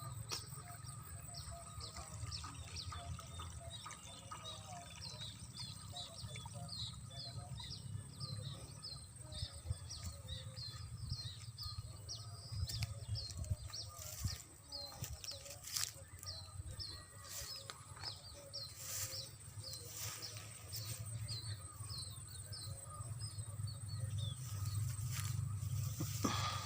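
A bird calling in a long series of short, high, downward-sliding chirps, two or three a second, thinning out after about twenty seconds, over a steady low rumble and a few scattered knocks.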